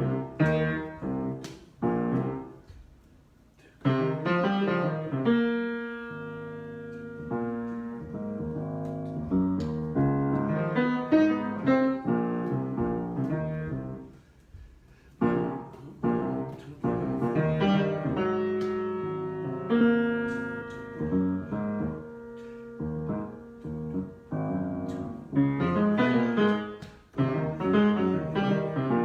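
Improvised piano playing: phrases of struck notes and held chords, with a short lull a few seconds in and busier runs of notes later on.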